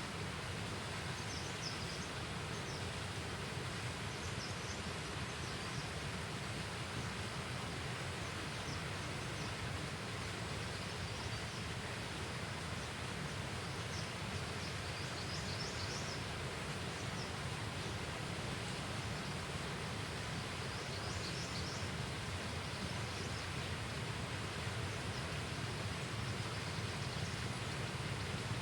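Steady outdoor ambient noise, an even rushing hiss, with short high chirps several times.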